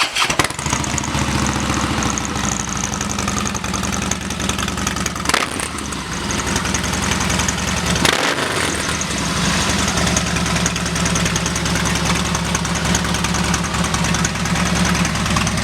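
2013 Harley-Davidson Softail Slim's 103 cubic inch air-cooled V-twin, through an upgraded exhaust, running at idle just after starting. Its note changes briefly about five and eight seconds in.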